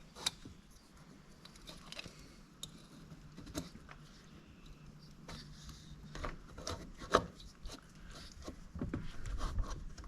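Scattered light clicks and knocks of metal engine parts being handled as a Yamaha Warrior 350 cylinder is worked down over the piston, with one sharper knock about seven seconds in. A faint steady low hum runs underneath.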